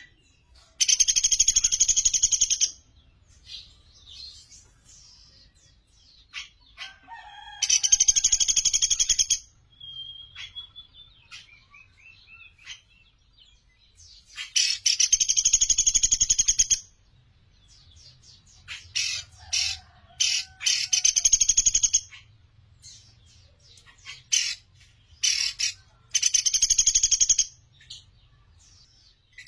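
Pelatuk beras calling: loud, rapid chattering trills about two seconds long, repeated five times, with short sharp notes and a few softer whistles in between.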